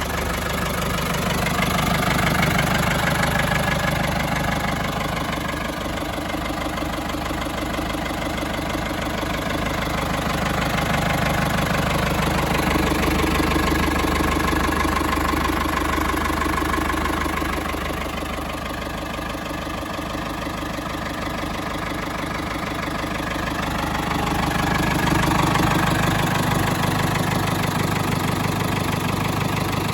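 Ford 7000 tractor's four-cylinder diesel engine idling with a steady diesel knock, the sound swelling and easing a few times.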